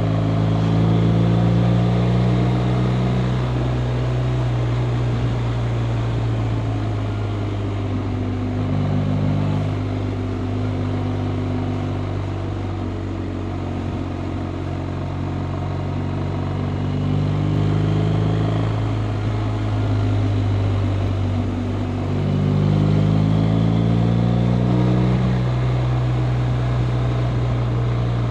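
BMW R 1250 RT's 1254 cc boxer twin running under way, its pitch climbing and then dropping in steps several times as the bike accelerates and changes gear.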